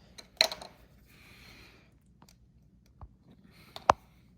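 A few sharp metal clicks and taps, the loudest about half a second in and near the end, with a faint scrape between: hand tools and small parts being handled while a Mikuni carburetor is taken apart.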